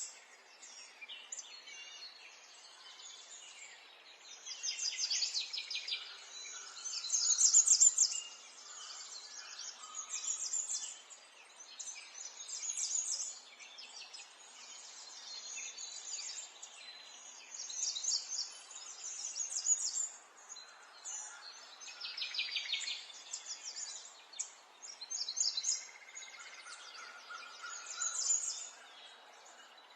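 Small songbirds chirping and singing in quick, high trills, a burst every few seconds over a soft steady outdoor hiss; the loudest trill comes about a quarter of the way in.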